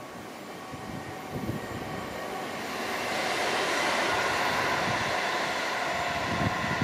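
A train passing. Its noise builds from about two seconds in and holds at a steady, louder level from about three seconds, with a few steady whining tones over it.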